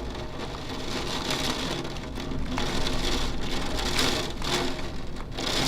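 Strong wind gusting through trees, swelling and easing every second or so, with a steady low rumble of wind on the microphone: the gust front of an approaching thunderstorm.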